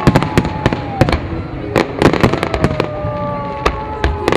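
Fireworks display: a rapid, irregular string of loud bangs and cracks from bursting shells, several to the second.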